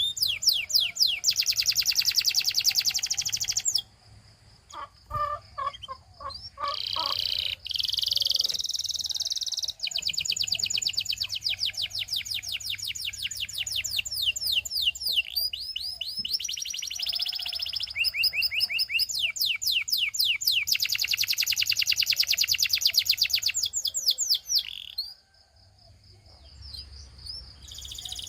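Domestic canary singing in fast, high trills of rapidly repeated notes. After about four seconds the trills break off for a few seconds, leaving a few slower, lower notes. The rolling trills then return and stop shortly before the end.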